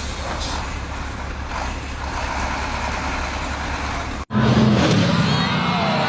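Steady vehicle engine and road noise with no clear events, then an abrupt cut about four seconds in to several people's voices shouting over one another.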